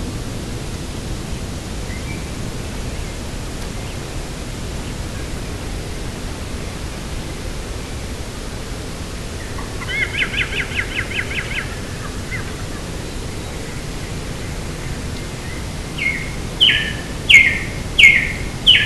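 Steady wind rushing across open ground, with a bird calling over it: a quick trill of about ten notes around ten seconds in, then near the end a series of five loud, sharp, falling calls about half a second apart.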